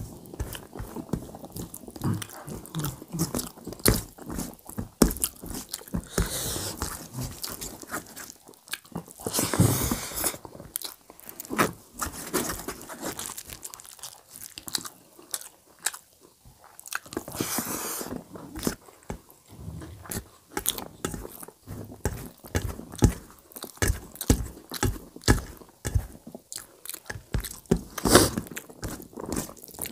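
Close-miked chewing and crunching of mouthfuls of rice with dum aloo potato curry: many short, crisp crunches and mouth sounds in quick succession, with a few longer hissing stretches.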